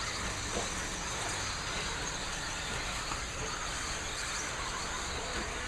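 Electric radio-controlled stock trucks racing around the track, a steady, even running noise with no single sound standing out.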